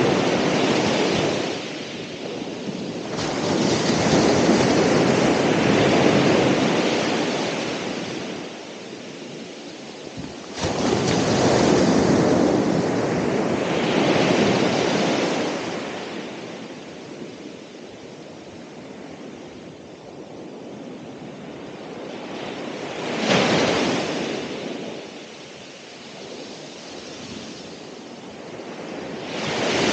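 Ocean waves breaking on the shore, the surf swelling and ebbing in long surges, the loudest a few seconds in and around twelve seconds in, with a short sharp crash about two-thirds through.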